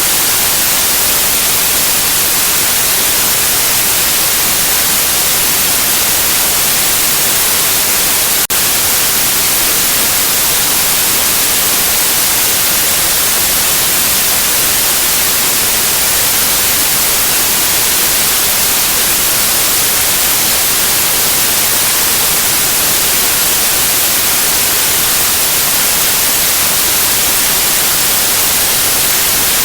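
Steady white noise, an even hiss strongest in the high end, played as a sleep and colic soother for babies. There is a momentary dropout about eight and a half seconds in.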